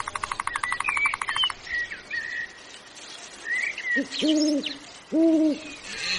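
Birds calling: a rapid trill for the first second and a half, a few short chirps, then two low hoots about a second apart.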